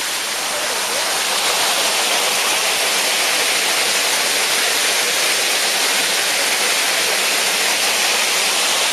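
Waterfall rushing steadily, a loud even hiss of falling water, growing a little louder about a second and a half in.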